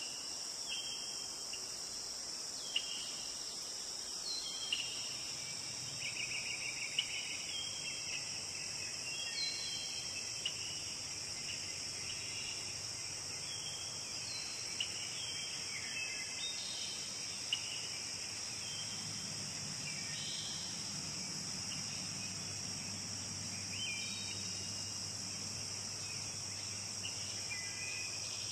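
Steady high-pitched insect chorus with songbirds giving short chirps and whistles over it throughout, and a few sharp clicks. A low rumble comes in about two-thirds of the way through.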